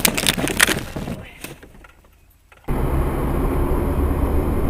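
A rapid run of sharp knocks and clatter that dies away, then an abrupt switch to a steady, low vehicle rumble of engine and road noise.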